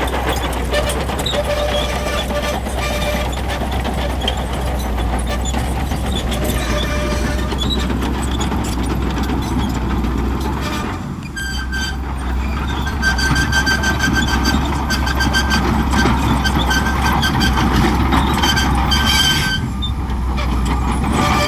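Shantui crawler bulldozer working, its diesel engine running steadily under load. A high-pitched squeal runs over the engine for several seconds in the second half.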